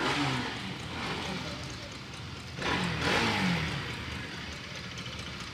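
Two motor vehicles go past about three seconds apart, each engine sound swelling and then dropping in pitch as it passes.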